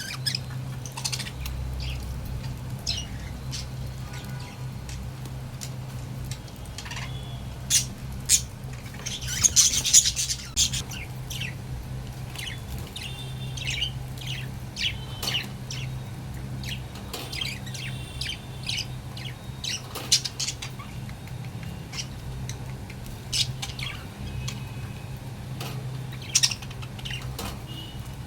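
Pet budgerigars chirping and squawking in short, scattered calls, with a brief louder flurry about ten seconds in. A steady low hum runs underneath.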